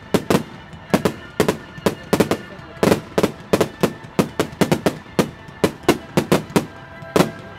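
Fireworks firing in quick succession: an irregular string of sharp bangs and cracks, about four a second.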